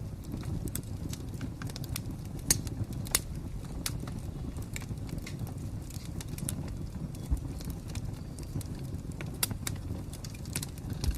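Wood fire crackling: irregular sharp pops and snaps over a steady low rumble, with a few louder pops about two and a half, three and nine and a half seconds in.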